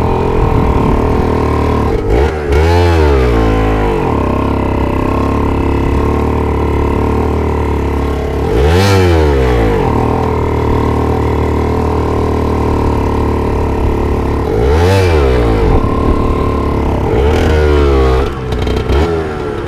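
125 cc motorcycle engine running steadily and revved up and back down four times, each rev lasting about a second. The rider has just said he can't make it up and mentioned the clutch.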